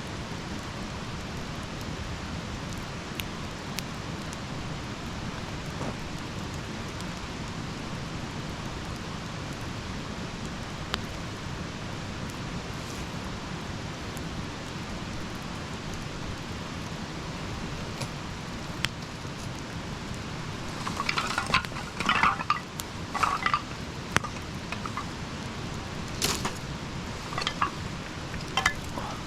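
Campfire burning with a steady hiss and scattered small pops. From about two-thirds of the way through comes a run of louder clinks and rustles as something is handled.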